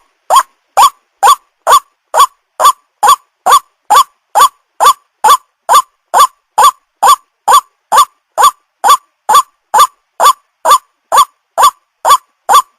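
White-breasted waterhen calling: a loud, short rising note repeated evenly a little over twice a second. A lure-call recording played to attract waterhens.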